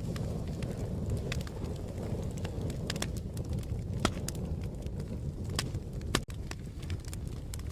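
Fire crackling: a steady low rumble of burning wood with scattered sharp pops and snaps at irregular intervals. About six seconds in, the sound drops out for an instant.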